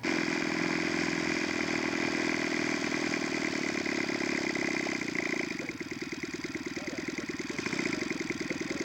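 Gas engine of a large-scale R/C model aeroplane running steadily, then throttled back about five seconds in to a lower, pulsing idle.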